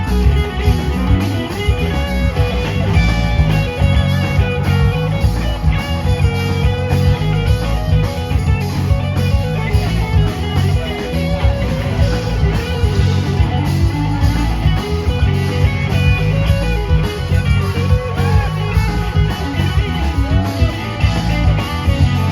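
A live rock band playing an instrumental passage, with electric guitar lines over steady bass and drums.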